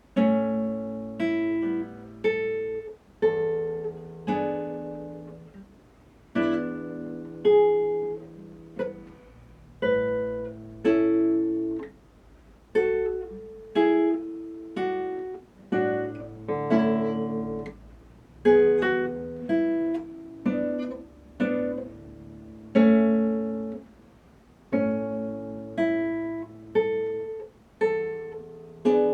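Acoustic guitar playing a slow piece of plucked chords and single melody notes, each struck sharply and left to ring and fade, about one a second.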